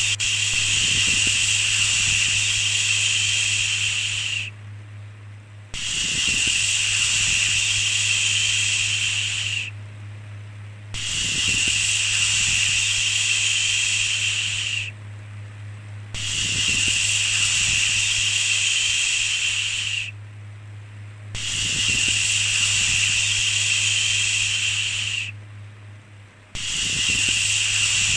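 Repeated 'shhh' shushing sound: about six long hissing shushes, each around four seconds, with a short pause of about a second between them. A steady low hum runs underneath.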